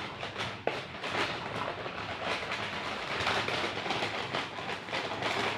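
Continuous crinkling and rustling of takeaway food packaging being handled, dense with small crackles.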